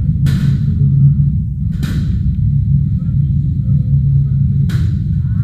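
Three separate smashing crashes, each with a short bright shattering tail, as objects are broken in a rage room, over a loud, steady low rumble.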